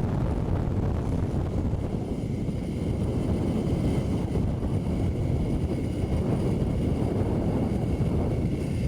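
Wind rushing over the microphone as a rider speeds down a long zip line, with the trolley's pulleys running on the steel cable. It is a steady low rumble with faint, steady high whining tones.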